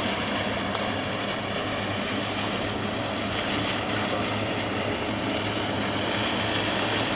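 Steady engine drone: a constant low hum with a rushing noise over it, unchanging throughout.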